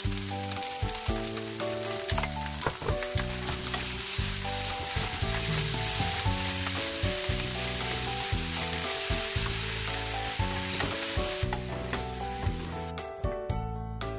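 Fried rice sizzling in a hot wok while it is stirred and tossed with wooden and silicone spatulas; the sizzling stops near the end. Background music plays throughout.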